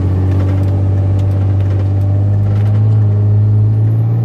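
Ram 2500's Cummins inline-six turbo diesel pulling under acceleration, heard inside the cab: a steady, loud low drone whose pitch creeps slowly upward. A faint high turbo whistle rises near the end.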